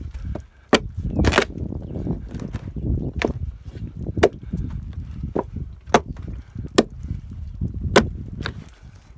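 Chopping blows of a tool striking a wooden log, eight or so sharp strikes at an uneven pace of about one a second, one of them a longer splintering crack about a second and a half in.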